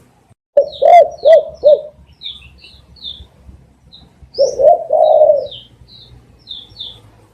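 Spotted dove cooing: a phrase of four short coos about half a second in, then a longer rolling coo about four and a half seconds in. Small birds chirp with high, short notes throughout.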